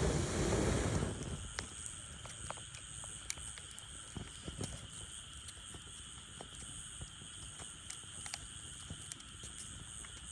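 Firewood burning in a steel fire pit, crackling with sparse, sharp pops and snaps. A brief rush of noise in the first second or so, then scattered single pops over a faint steady hiss.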